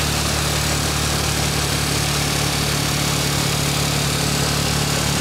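Motorcycle engine of a sidecar tricycle running at a steady speed while riding, with a steady rush of road and wind noise.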